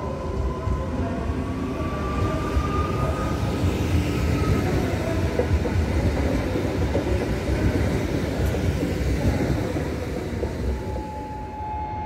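Newag Impuls (36WEa) electric multiple unit pulling away: its traction motors whine, rising in pitch over the first few seconds, over the rumble and clatter of wheels on the track. A steady higher tone comes in near the end.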